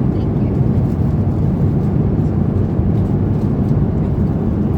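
Steady low rumble of cabin noise inside an Airbus A350-900 airliner, the engines and airflow heard from a seat in the cabin.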